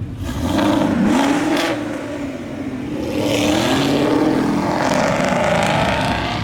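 Ford Mustang engine revving hard several times, its pitch climbing and dropping, with a rising hiss joining from about three seconds in.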